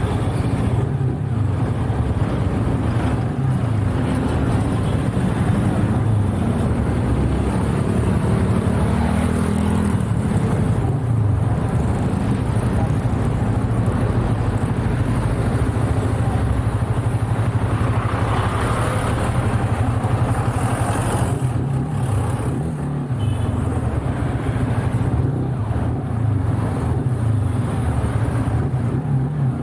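Motorcycle engine running steadily while riding, heard through the Insta360 One R action camera's microphone with its firmware wind-noise reduction, so the wind rush is held down under the engine. The engine note rises and falls a little with the throttle.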